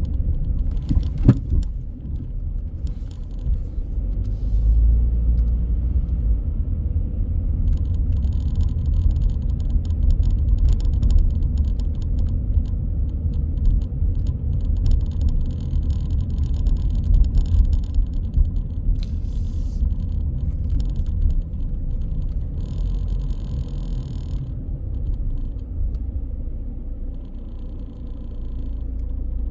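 Car driving, with a steady low rumble of engine and road and a hiss that comes and goes through the middle stretch.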